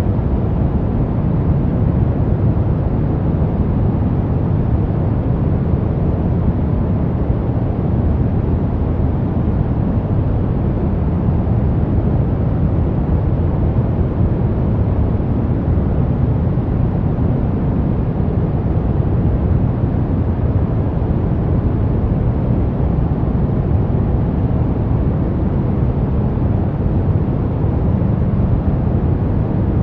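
Brown noise: a steady, even, deep rushing hiss with most of its weight in the low end, unchanging throughout.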